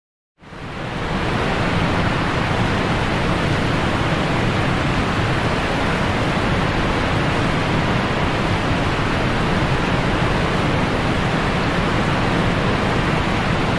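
Water gushing steadily from a broken pipe, a constant rushing hiss that starts about half a second in and holds level.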